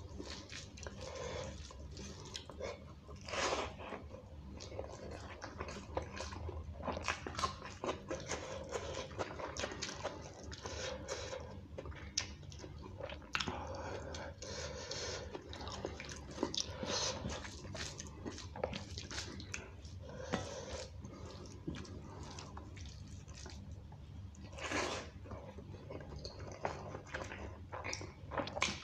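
Close-miked wet chewing and lip-smacking of curry-soaked rice and beef, a dense run of small sticky mouth clicks, with a couple of louder smacks. The fingers squish through the wet rice between bites.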